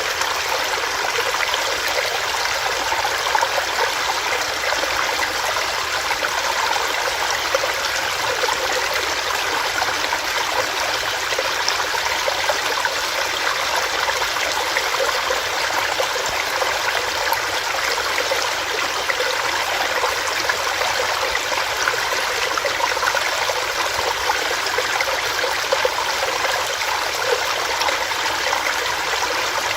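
Small rocky stream, water running and splashing over rocks with a steady, even rush and fine bubbling texture.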